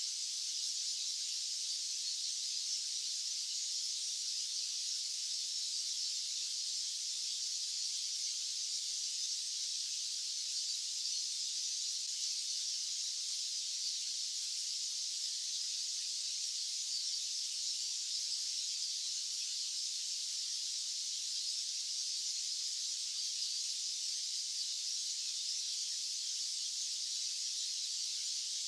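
Steady white-noise hiss, even and unbroken, thin and high with its weight in the upper range and no low rumble.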